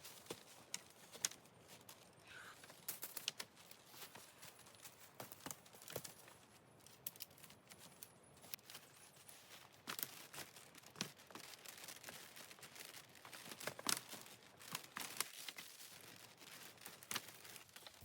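Dry wood and forest litter crackling, with scattered sharp snaps and clicks at irregular intervals and light rustling.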